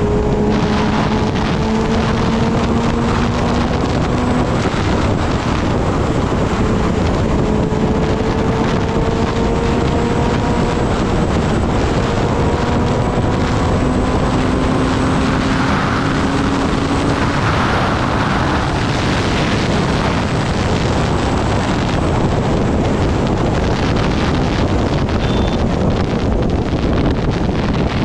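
Kawasaki Ninja ZX-10R inline-four engine running while the bike is ridden at speed, under heavy wind rush on the microphone. The engine note climbs slowly a few times as the bike pulls through the gears.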